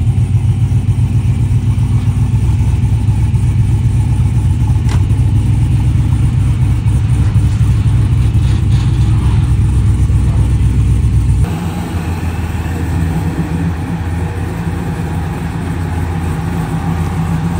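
Car engine running steadily at an even speed. About two-thirds of the way through, the sound cuts abruptly to a quieter, different engine sound.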